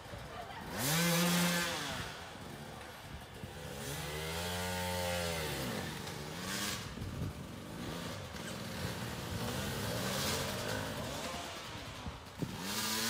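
A small engine revving up and falling back three times: a short rev about a second in, a longer one around the middle, and another at the end.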